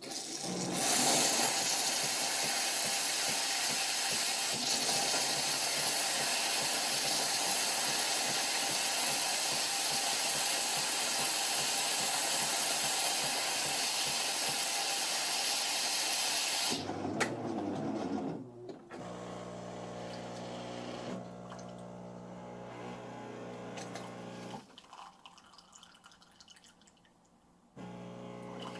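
Jura C9 automatic coffee machine running its cappuccino cycle: a loud, steady hiss for about sixteen seconds, then a brief low rumble, then the steady hum of the machine's water pump, which stops for a few seconds and starts again near the end.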